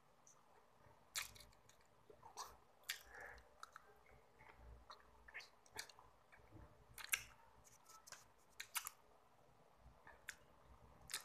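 Close-up mouth sounds of chewing chocolate with the lips closed: scattered soft clicks and wet smacks.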